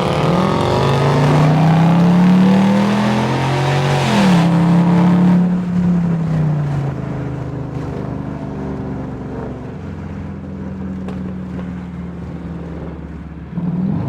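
A car engine revving under acceleration. Its pitch climbs over the first few seconds and breaks about four seconds in, then falls away into a steady lower drone that starts to rise again right at the end.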